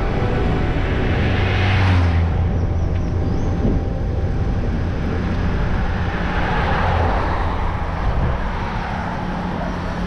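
Road traffic noise with a steady low rumble.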